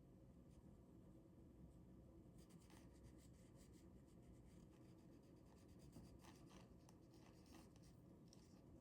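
Faint scratching of a ballpoint pen drawing on paper: quiet at first, then a run of short, quick strokes from a couple of seconds in.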